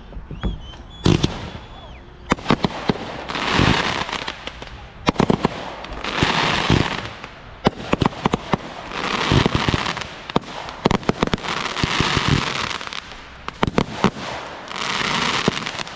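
Consumer fireworks going off: a string of sharp bangs, with a crackling shower swelling about every three seconds, and a brief whistle near the start.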